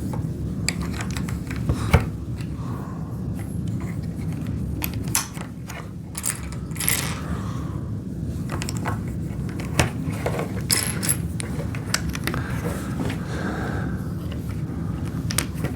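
LEGO plastic bricks being handled and pressed together: irregular small clicks, taps and rattles of loose pieces, over a steady low background hum.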